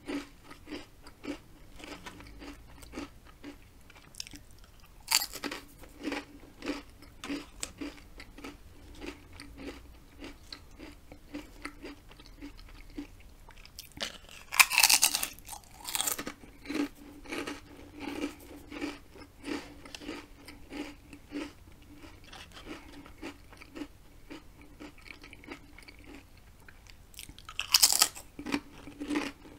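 A person chewing steadily, about one or two chews a second. About halfway through, a ridged potato chip is bitten and crunched loudly, and there is another burst of crunching near the end.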